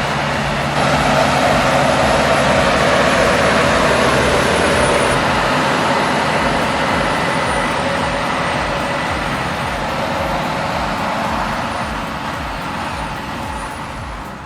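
Heavy-haul truck engine running under load with a steady low note, mixed with road noise. The sound gets louder about a second in and eases off toward the end.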